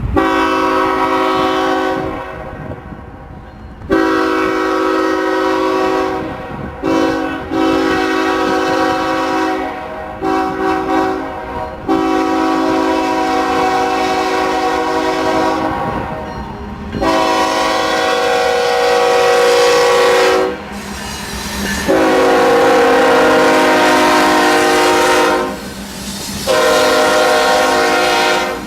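Diesel locomotive air horn sounding a chord of several notes in a long series of blasts, some short and several held for three to five seconds, with only brief gaps between them.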